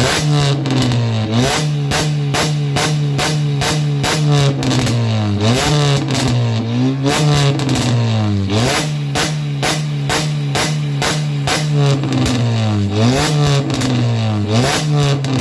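Car engine revved in repeated quick blips through an aftermarket P4-type exhaust muffler with a deep bass tone, each blip rising and then falling back in pitch.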